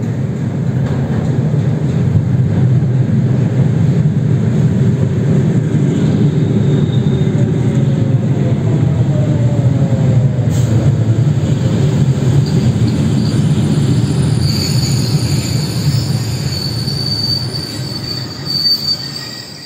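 Electric suburban multiple-unit train pulling into the platform with a steady rumble of wheels on rail and a falling motor whine as it slows. From about three quarters of the way through, a high brake squeal rings as it draws to a stop, and the rumble fades.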